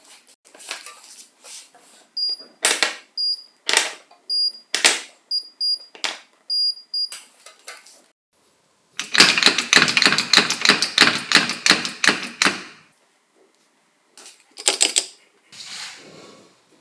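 Hand work on small metal parts of an angle grinder being restored: separate clinks and taps, some with a short high ring. About nine seconds in comes a fast run of even clicks, about eight a second, lasting three or four seconds, then a few more knocks.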